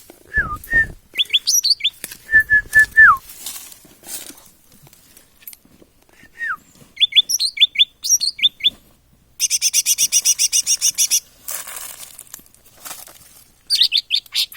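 Cucak ranting songbird singing in repeated phrases: quick runs of sharp rising chirps, slurred whistled notes that drop at the end, and a fast even trill of about a dozen notes near the middle.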